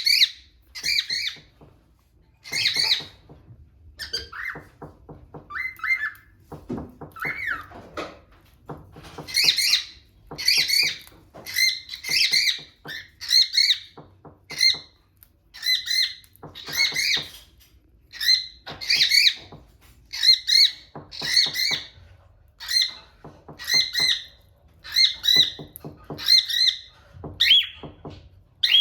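Cockatiels calling: short, shrill, repeated calls, sparse and gliding in pitch at first, then settling after about nine seconds into a steady run of about one call a second.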